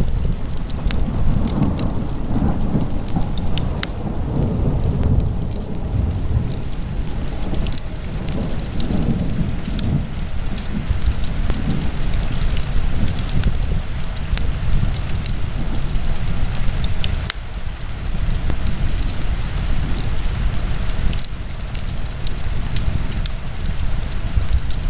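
Wood fire burning in a fireplace: a steady low rumble of the flames, with scattered sharp crackles and pops throughout.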